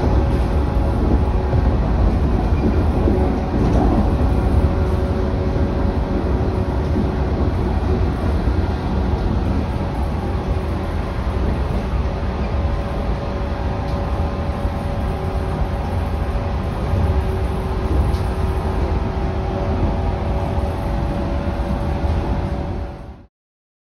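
Running noise inside the passenger car of a JR 115 series electric train: a steady, loud rumble of wheels on rail with a steady hum at an unchanging pitch. It cuts off abruptly near the end.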